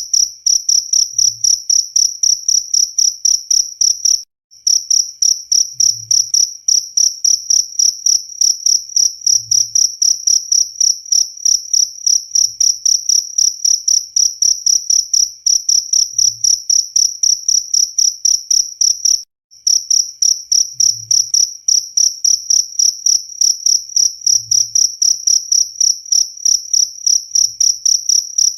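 Cricket chirping loud and steady, a fast even train of high-pitched pulses. It breaks off for a split second twice, about four and about nineteen seconds in.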